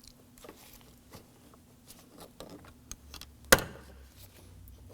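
Small plastic trim cover on a Ford Focus door panel being pried out with a flathead screwdriver: light clicks and scrapes, then one loud sharp snap about three and a half seconds in as its locking tabs release.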